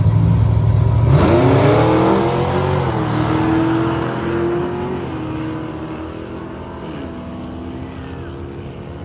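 Car engine at full throttle launching down a drag strip: the revs sweep up about a second in, with a few dips in pitch as it shifts, and the sound fades steadily as the car pulls away down the track.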